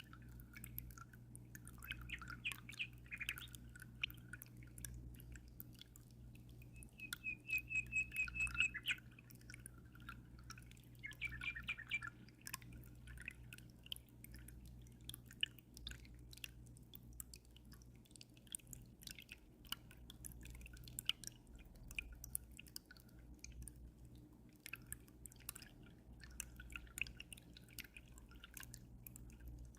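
Aquarium water dripping and trickling in a constant patter of small drops, over a steady low hum. A small bird chirps now and then and gives a quick trill of rapid repeated notes about eight seconds in, the loudest sound.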